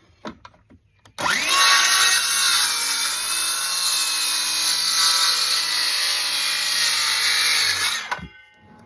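Battery-powered saw spinning up and cutting through a wooden board, one steady cut of about seven seconds, then the motor stops.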